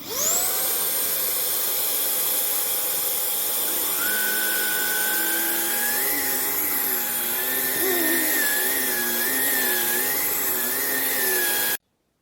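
Vax Blade 4 cordless stick vacuum's motor spinning up with a quick rising whine and then running steadily with a high whine. From about four seconds in, a wavering tone rides over it. The sound cuts off abruptly near the end.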